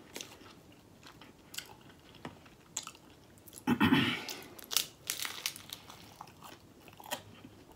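Biting into and chewing a fried corned beef egg roll close to the microphone: scattered crisp crunches and mouth sounds, loudest about four seconds in.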